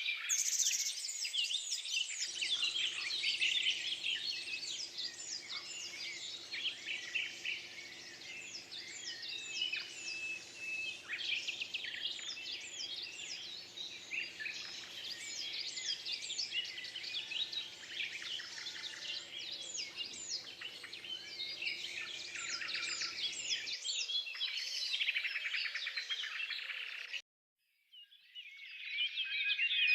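Many small birds chirping at once, a dense chorus of short, quick chirps. The sound cuts out abruptly near the end, and the chirping comes back a second later.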